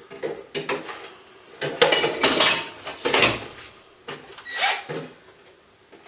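Metal parts and hand tools clattering and knocking on a workbench as an electrical fixture is taken apart: a string of small clicks and knocks, with louder metallic clatters from about two to three and a half seconds in and again near five seconds.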